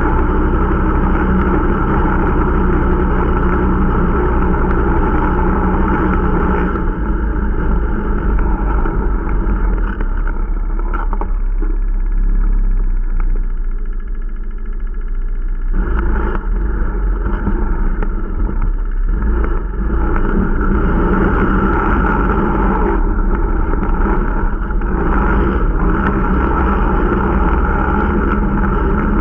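Irbis Dingo T125 snowmobile's small 125 cc four-stroke engine running under way on a break-in ride, a steady drone. About a third of the way in the engine eases off for several seconds, then picks back up to its earlier note.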